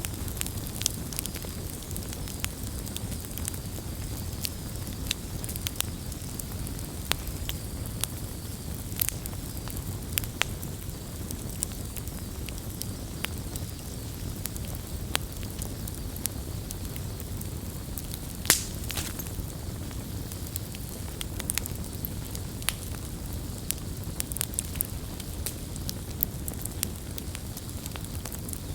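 Wood campfire burning with a steady low rumble and frequent sharp crackles and pops, one louder pop about two-thirds of the way through.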